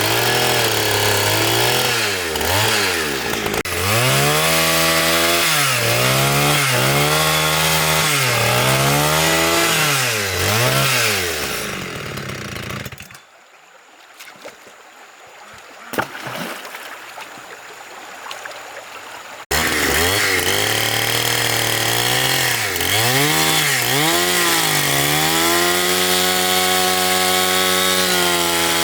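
Chainsaw cutting wood, its engine pitch dipping and climbing again and again as it loads up in the cut and revs free. Partway through it gives way for about six seconds to quieter sounds and a single knock, then comes back suddenly at full speed.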